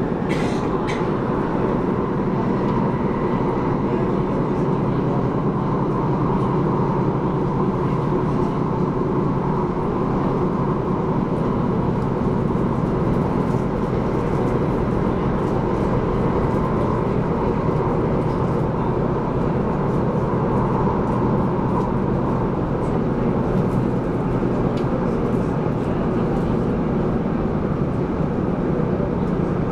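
Interior running noise of an MTR SP1900 electric train carriage at speed: a steady, continuous rumble of wheels on rail with a low hum, unchanging throughout.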